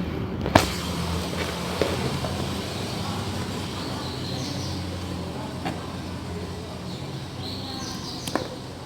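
A motor vehicle's engine running steadily in the background, a low hum that slowly fades, with a few sharp clicks over it.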